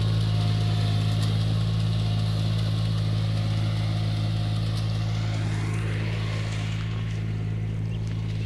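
Engine of a mechanical rice transplanter running steadily, slowly growing fainter.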